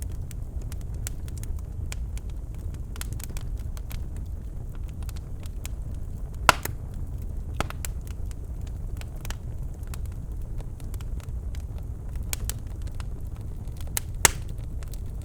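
Birch logs burning in a fireplace: a steady low rumble of the flames with scattered crackles and sharp pops, the two loudest about six and a half seconds in and near the end.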